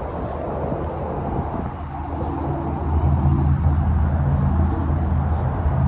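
A low, steady engine hum that grows louder about three seconds in.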